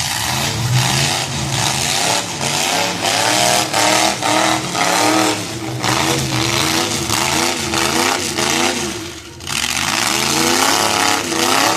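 Demolition derby cars' engines revving hard, their pitch rising and falling again and again, with a brief lull about nine seconds in.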